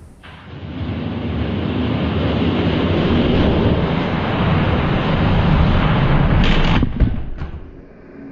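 Diecast toy monster trucks rolling fast down a plastic track: a loud, steady rolling rumble that builds over the first second, then a few sharp knocks near the end as they reach the finish, the loudest about seven seconds in.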